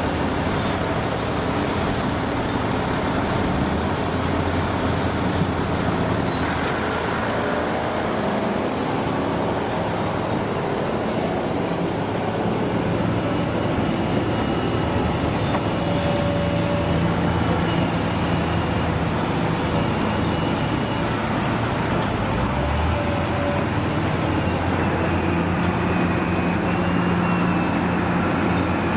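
Old diesel trucks and construction machines running together, a steady mix of engine noise with the engine notes shifting now and then.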